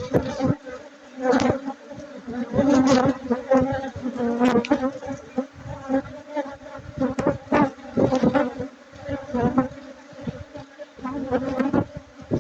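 Honey bees buzzing around their hive, a steady low hum, with irregular short rushes of noise rising and falling over it.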